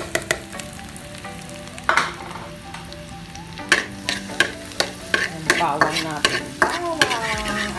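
Minced garlic sizzling in oil in a wok, with a spatula stirring and scraping against the pan in repeated sharp clicks, busier in the second half.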